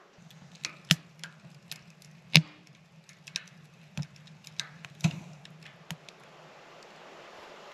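Wood fire of freshly added logs crackling, with irregular sharp pops and cracks, one much louder about two and a half seconds in. A low steady hum runs underneath and stops near the end.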